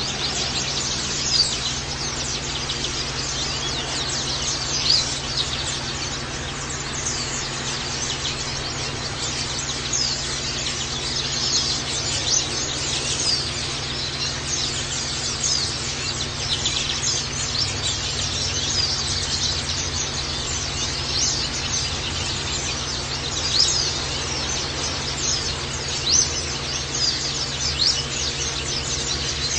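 White-eyes (pleci) chirping rapidly and continuously with short, high calls over a steady background hiss.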